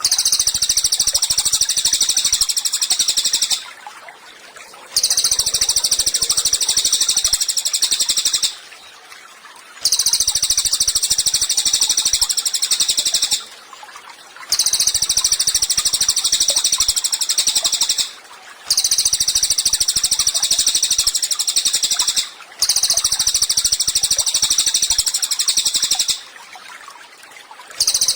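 Cililin bird singing: long, high, rapid trills of about three to four seconds each, repeated about seven times with short pauses between them.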